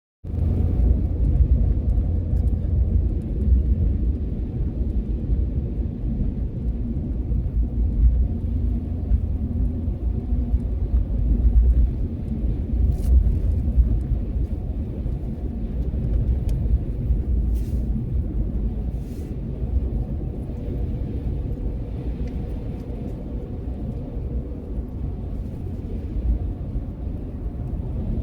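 A steady low rumble, with a few faint ticks about halfway through.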